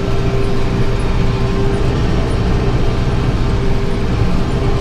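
Tractor engine running steadily under load while pulling a round baler that is picking up hay, with a steady whine over the engine.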